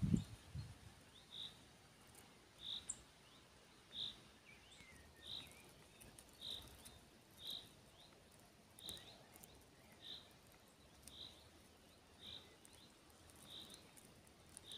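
A bird repeating a single short, high call at a steady pace, about once a second, faint over a quiet background.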